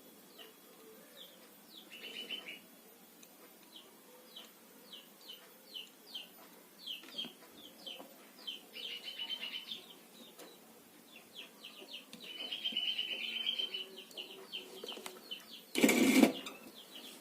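Small birds chirping in the background, a run of short high chirps repeated several times a second with a few longer trills. A single loud knock about a second before the end.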